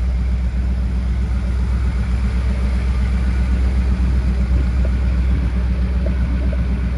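Ford 460 V8 engine of a 1978 F-250 with headers, idling steadily with a deep, even rumble.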